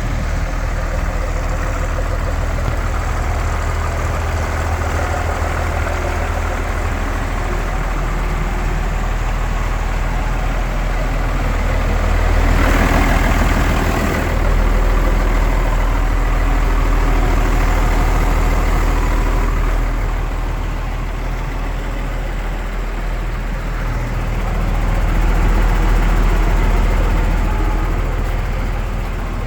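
Iveco Eurocargo 80E15's six-cylinder turbodiesel engine running at idle, a steady low drone that grows louder for a few seconds about halfway through and again later.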